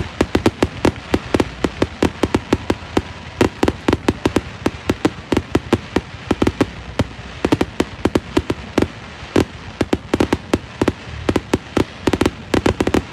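Fireworks going off in a rapid, irregular string of sharp bangs and pops, several a second, with no pause until they stop near the end.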